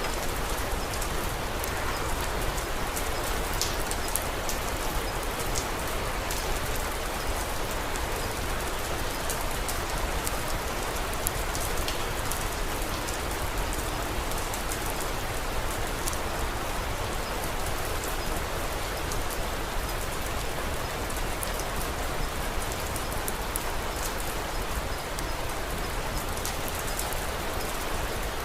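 Steady rain falling, an even hiss of rain on surfaces with scattered sharp drop ticks.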